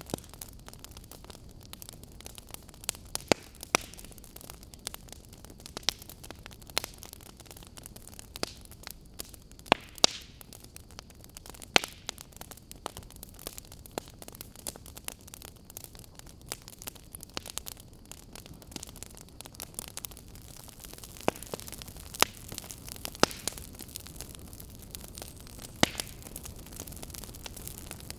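Burning firewood crackling: a steady hiss dotted with irregular sharp pops and a few louder snaps.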